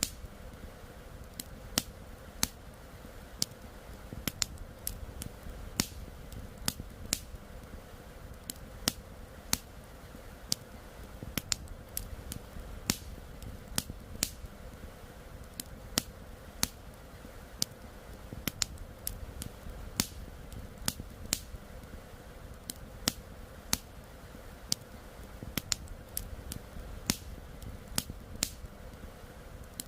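Wood fire crackling: sharp irregular pops and snaps, a few each second, over a steady low rush of flowing river water.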